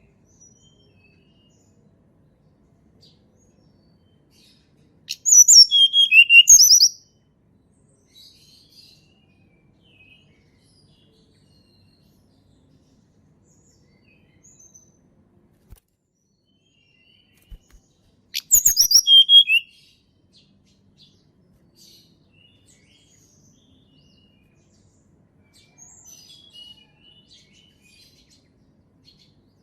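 A Sunda robin (tledekan gunung) singing: two short phrases of quick, clear high notes about thirteen seconds apart, each falling in pitch over under two seconds, with faint soft chirps near the end.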